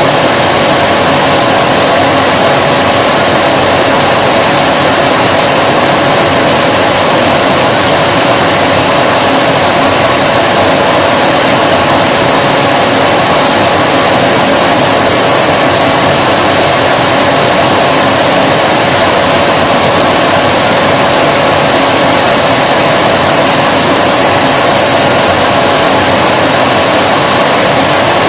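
Vacuum cleaner running steadily: an unbroken loud rushing noise with a constant mid-pitched tone inside it, never changing in pitch or level.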